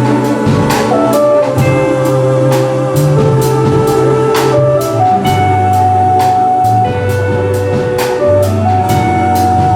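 An ensemble playing music with drum kit: held melody notes moving step by step over a bass line, with drums keeping a steady beat.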